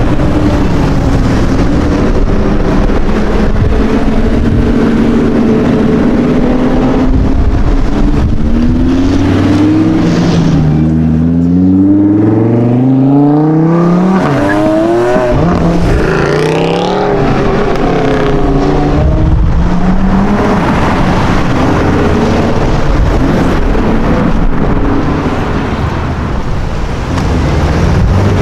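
Sports car engine running close by, then accelerating hard from about ten seconds in, revving up in several rising sweeps one after another as it shifts up through the gears. A steady engine and traffic rumble fills the rest.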